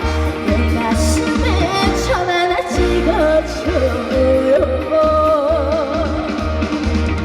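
Trot song performed live: a woman sings long held notes with a wide vibrato over a backing track with a steady bass beat.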